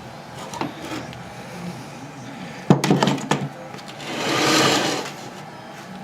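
Metal workshop handling noises: a few light clicks, a sharp knock with a cluster of clinks about halfway through, then a rasping noise that swells and fades for about a second, as a compression gauge hose is fitted to a small engine.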